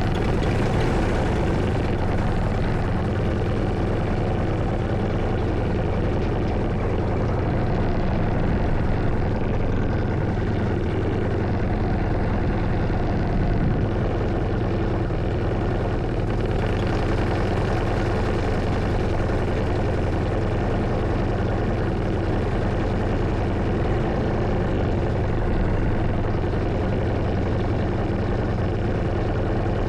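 Paramotor engine and propeller running at a steady throttle, an even drone with no changes in pitch.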